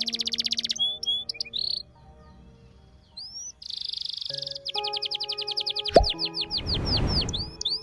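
Small songbirds chirping and singing rapid high trills and sweeping chirps over soft background music. The birds pause briefly about two seconds in, and there is a short rush of noise near the end.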